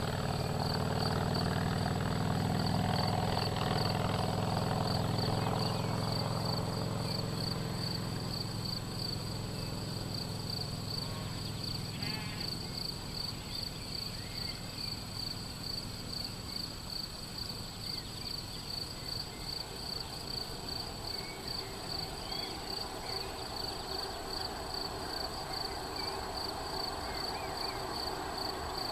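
A motor vehicle's engine running, loudest in the first few seconds and fading away about a quarter of the way in. Under it, a high, fast-pulsing chirr continues steadily, with a few short bird chirps.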